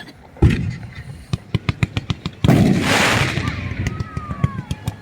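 Fireworks going off: one sharp bang, then a rapid string of firecracker-like cracks at about four or five a second, with a bigger hissing blast about halfway through and faint whistles near the end.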